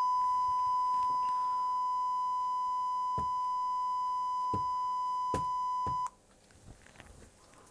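Sonnect Sound Bullet's signal generator putting out a steady, single-pitch test tone. The tone cuts off suddenly about six seconds in, and a few faint clicks are heard along the way.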